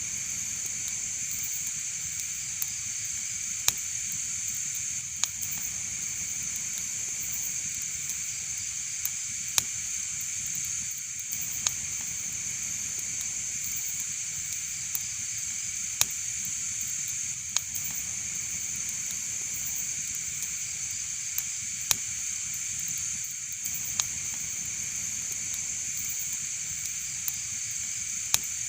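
Wood fire burning in a fireplace: a steady hiss with sharp single crackles and pops every couple of seconds.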